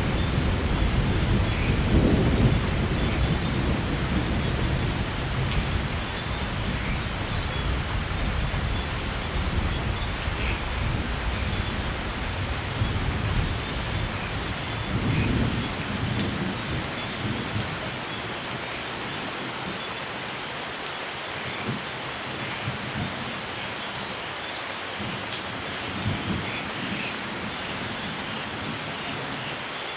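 Steady heavy rain with rolling thunder, the low rumble strongest at the start and with a swell around the middle, dying away in the second half to leave the rain alone.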